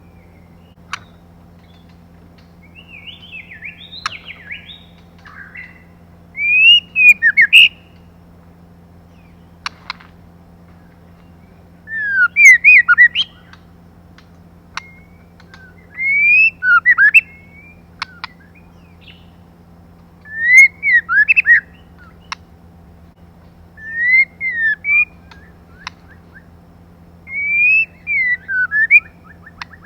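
Female white-rumped shama calling: six short phrases of quick rising and falling whistles, one about every four seconds, with softer chirps before the first. These female calls are a lure that stirs male shamas into song.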